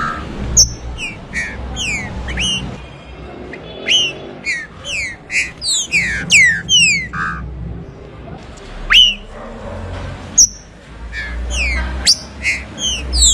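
Green-winged saltator (trinca-ferro) singing: a rapid run of sharp, down-slurred whistled notes in quick clusters with brief pauses.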